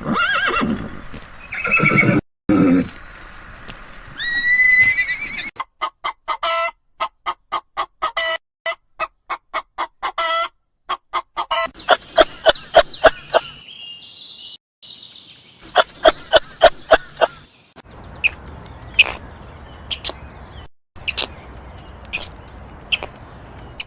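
Farm animal calls, one after another in short clips with abrupt cuts between them, including quick series of repeated calls.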